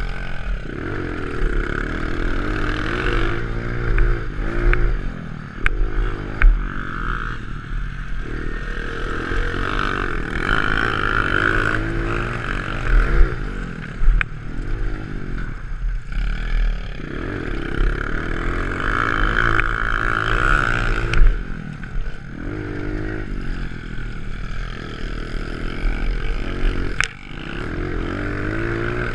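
Pit bike engine revving up and falling back again and again as the rider accelerates and shifts, heard close up from the onboard camera, with scattered clatters and knocks.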